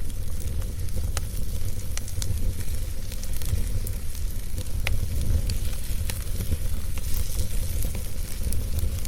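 Fireplace fire burning with a steady low rumble and hiss, with sharp crackles and pops at uneven intervals.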